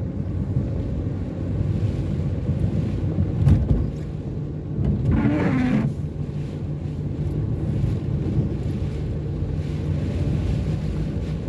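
Car driving on the road, heard from inside: a steady low engine and road rumble, with a single bump about three and a half seconds in.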